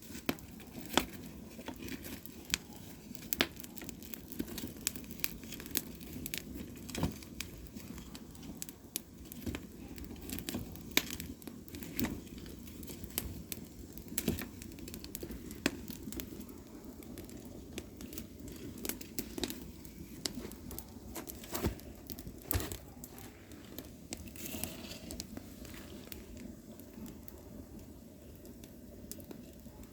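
Firewood logs burning, with irregular sharp crackles and pops over a steady low rush of flame.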